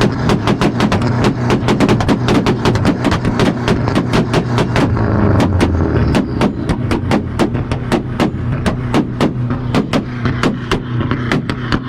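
Car engine held on a two-step launch-control rev limiter, the exhaust popping and banging rapidly at about five or six loud bangs a second over a steady low engine note.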